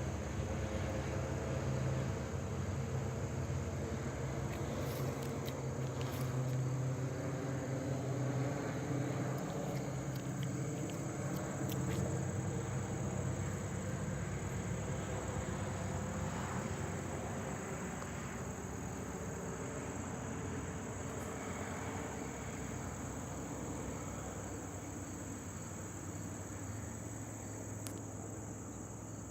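Crickets chirring in a steady high drone, over a low engine hum that is strong at first and fades away over the second half.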